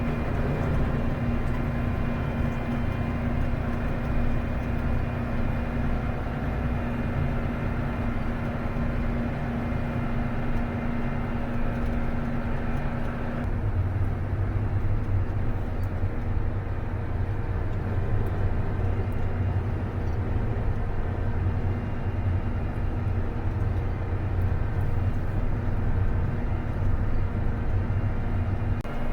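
A vehicle engine running steadily, its note changing about halfway through to a deeper, steadier hum.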